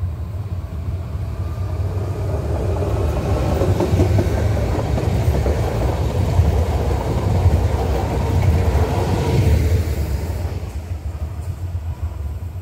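EN90-series electric multiple unit passing by on the rails: a wheel-and-rail rumble that grows louder as it approaches, is loudest for several seconds in the middle, and fades away after about ten seconds.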